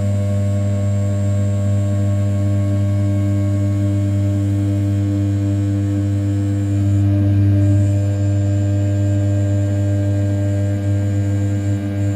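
500 W brushless spindle on a desktop CNC mill turning at about 6000 rpm, cutting A7075 aluminium in a steady roughing pass around the outer profile. A loud, even hum pitched at the spindle's rotation with a faint high whine above it, swelling a little about seven seconds in.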